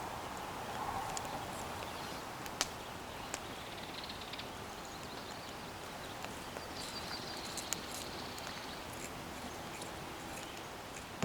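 Steady outdoor background noise with a few scattered sharp knocks or clicks and faint high trills.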